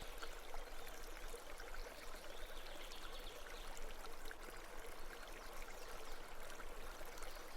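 Faint, steady trickling and babbling of a small mountain stream, with many small splashing ticks.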